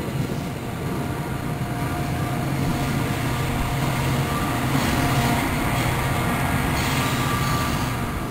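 New Jersey Transit commuter train pulling out of the station: its wheels rumble over the rails under a steady low drone. The sound dies away right at the end.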